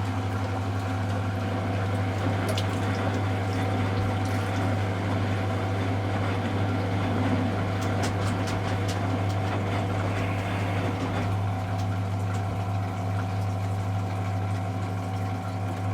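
Miele Novotronic W715 washing machine running: a steady electric hum with water sloshing and flowing inside it, and a few faint ticks about halfway through.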